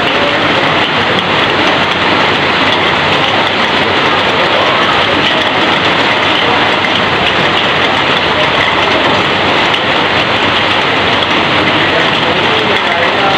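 Heavy rain pouring down onto corrugated roof sheets, with water running off the roof edge: a dense, steady hiss.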